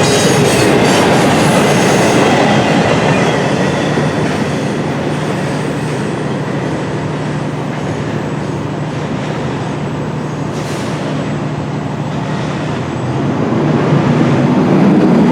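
Freight cars of an intermodal container train rolling past, with steel wheels rumbling on the rails and a thin wheel squeal in the first couple of seconds. The noise eases after about four seconds and swells again near the end.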